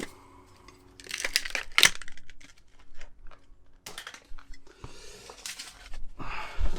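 Bouts of scraping, clicking and rustling from hands and tools working at a van's lock barrel to get it out, coming in short bursts with the loudest near the start and again near the end.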